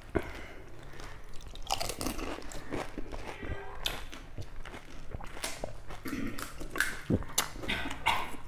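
Crisp, hollow pani puri (golgappa) shells cracking, then being crunched and chewed, in irregular bursts.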